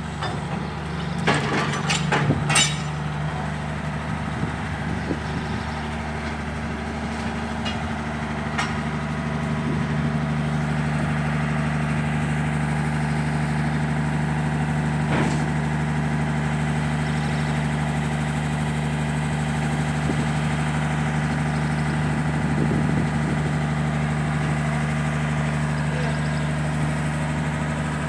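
A motor running steadily with an even low hum, with a few sharp knocks in the first few seconds and another about halfway through.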